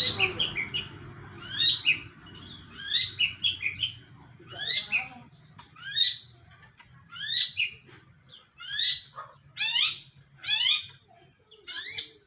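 A bird calling in short repeated bursts, roughly one a second, each a quick run of sharp, high notes that sweep in pitch.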